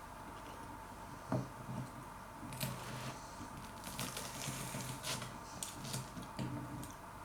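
A person biting into and chewing toast topped with smashed avocado and Vegemite: irregular crisp crunches, after a single knock about a second in.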